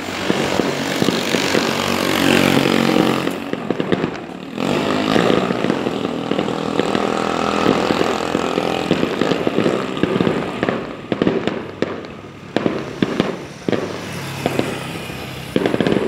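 Fireworks going off in a dense, continuous stream of crackles and pops, with a brief lull about four seconds in.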